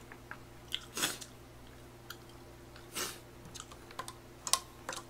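Close-miked chewing of a mouthful of food, with a few sharp short smacks spread through, over a steady low hum.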